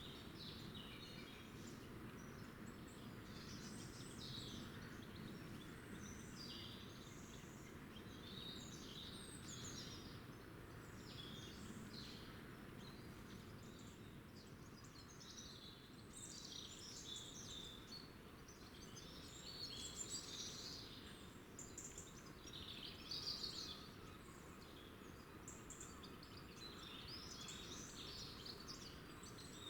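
Small wild birds chirping and twittering, with many short calls overlapping throughout, faint over a steady low background noise.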